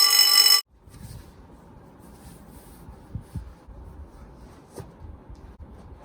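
A loud electronic ringing tone, several pitches sounding together, stops abruptly under a second in. Faint rustling with a few soft clicks follows.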